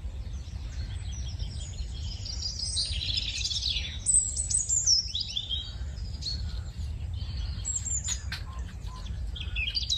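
Birds chirping and calling in quick, high, gliding notes, over a steady low rumble, with a few sharp clicks about eight seconds in.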